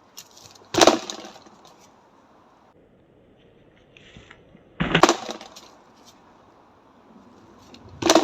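Karate strikes landing on a dry dead tree trunk: three heavy, sudden thuds of hard dry wood with a cracking edge, about a second in, about five seconds in and near the end.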